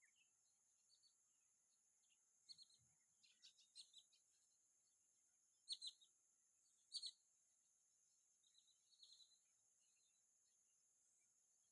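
Faint bird calls: scattered short, high chirps, the loudest a pair about six and seven seconds in, and a quick run of notes near nine seconds, over a steady high hiss.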